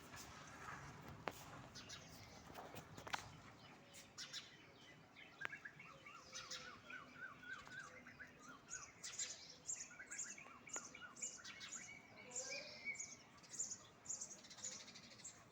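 Small birds chirping: scattered short chirps, a quick run of repeated notes about six seconds in, then a fast string of high chirps through the second half. A couple of sharp clicks sound in the first few seconds.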